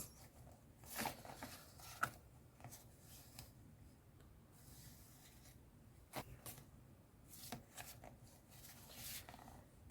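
Faint, scattered rustles and light taps of paper and card being handled and sorted on a desk, a few brief sounds spread over an otherwise quiet room.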